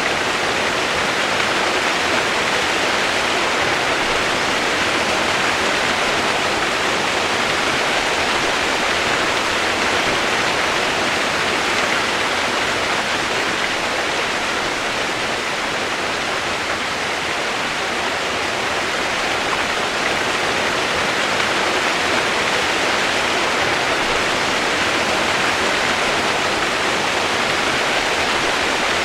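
Steady rush of running water, as from a waterfall or fast stream, an even unbroken noise with no separate sounds standing out.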